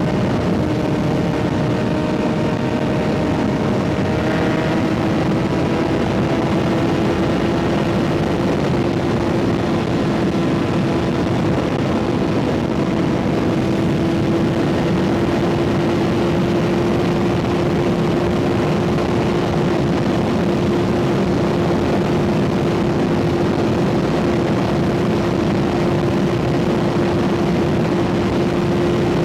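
A Kawasaki ZX-6R 636's inline-four engine running at a steady cruise through an M4 exhaust. Its pitch rises slightly about five seconds in, then holds, over a steady rush of wind noise.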